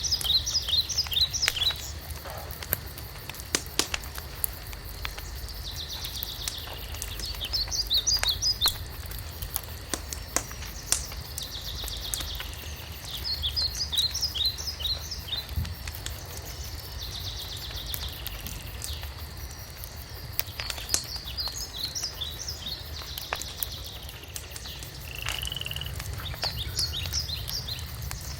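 Wood fire crackling with scattered sharp pops. Over it, a high, rapid chattering animal call repeats about every six seconds.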